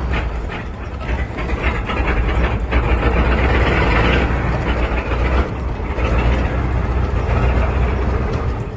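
A large old engine running with a loud, heavy low rumble that cuts off abruptly near the end.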